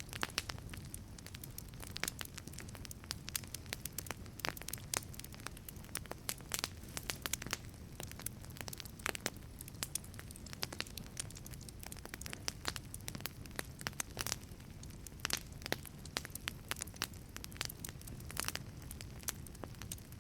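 Wood fire burning in a wood-fired pizza oven: irregular sharp crackles and pops over a steady low rumble of flame.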